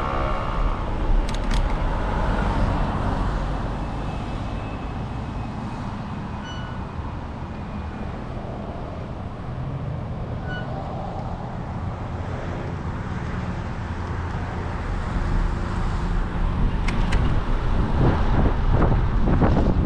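Road and traffic noise heard while cycling: a steady rumble of cars passing and wind on the microphone, getting louder near the end.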